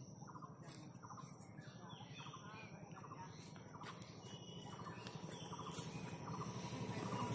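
Faint birds chirping in short, repeated calls over a low steady hum. The background grows a little louder toward the end.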